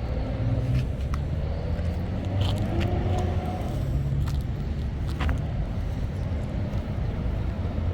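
Steady low rumble of car engines and road traffic, with a car's pitch rising briefly a couple of seconds in and a few faint clicks.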